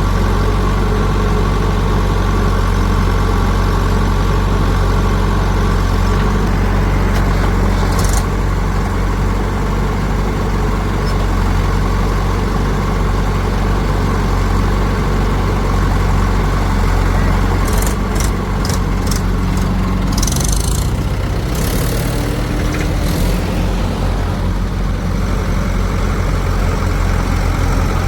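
Heavy diesel engine of a backhoe loader or tractor running steadily, its note changing about two-thirds of the way through. A few sharp clicks and short hissing bursts sound over it in the second half.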